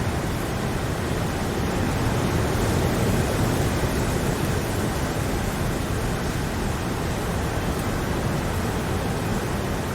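Steady rain, a continuous even hiss of falling water with no separate drops or rhythm standing out.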